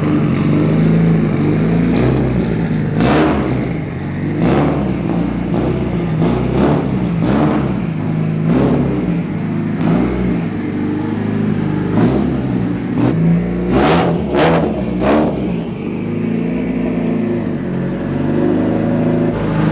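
Turbocharged Nissan SR20DET four-cylinder in a 180SX drift car, running and being revved in repeated short throttle blips. Each blip brings a short sharp crack, about a dozen of them a second or so apart through the middle of the stretch, with steadier running at the start and end.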